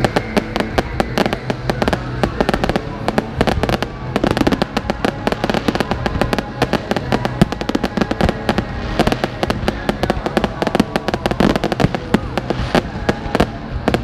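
Fireworks going off in rapid succession: dense crackling and bangs, several a second.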